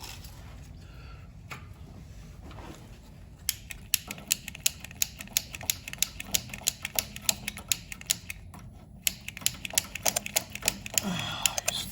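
A rapid, irregular run of sharp mechanical clicks, several a second, starting about three and a half seconds in, over a low steady hum.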